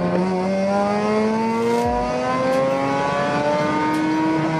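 Sports car engine accelerating hard in one gear, its pitch rising steadily as the revs climb toward the redline, heard from inside the car.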